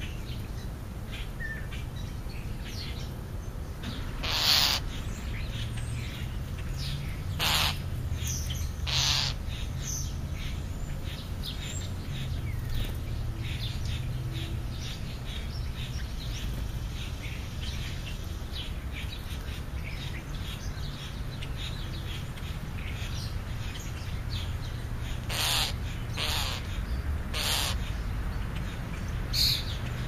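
Birds calling at a backyard feeding spot: a few short, harsh calls spaced out, then several close together near the end, with fainter chirps in between. A steady low rumble lies under them.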